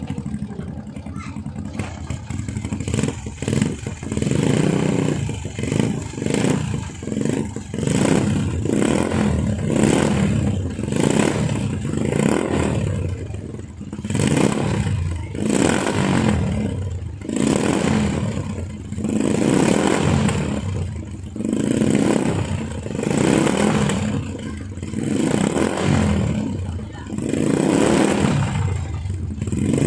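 Motorcycle engine running through an exhaust shared by three motorcycles. It runs rough at first, then from several seconds in is revved in repeated blips, about one every second or so.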